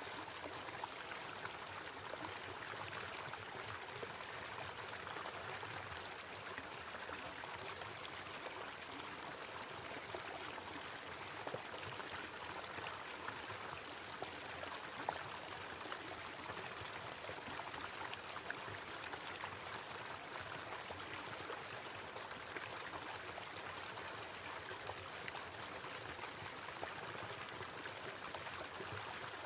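Small waterfall splashing and running steadily.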